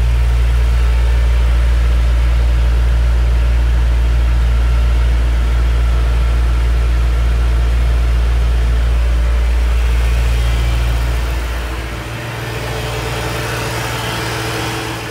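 A 2007 Shelby GT500's supercharged 5.4-litre V8 idling steadily, with a deep, even rumble that gets a little quieter about twelve seconds in.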